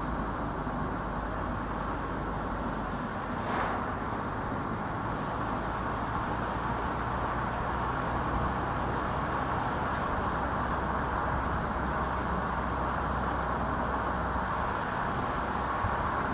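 A car driving on a road: steady tyre and road noise with a low rumble underneath, and one short knock about three and a half seconds in.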